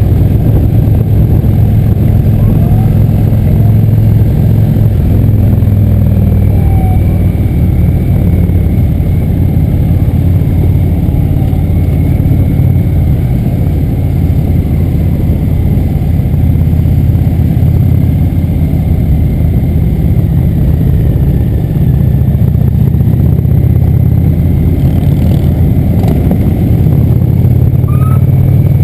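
Motorcycle engine running steadily at cruising speed, a loud low drone with no breaks.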